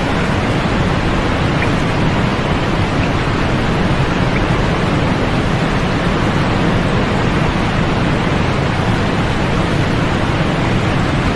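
Steady sleep-aid white noise: an even, unchanging hiss, fullest in the lows and mids with the highest frequencies rolled off.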